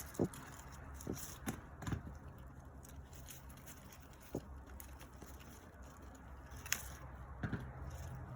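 Cherry tomatoes being picked by hand: scattered sharp snaps and crackles of stems and foliage, a few seconds apart, over a low steady hum.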